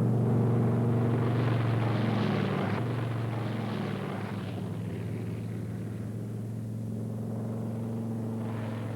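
Piston-engined propeller aircraft droning steadily in flight, with a steady low engine note. The rushing noise above it grows fainter over the first few seconds.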